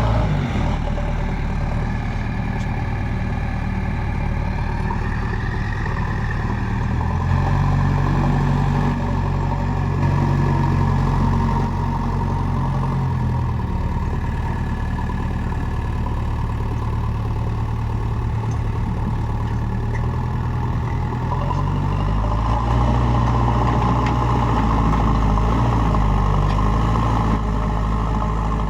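Diesel engine of a heavy work machine running steadily. Its note rises and holds higher twice, as the throttle is opened or the engine takes load.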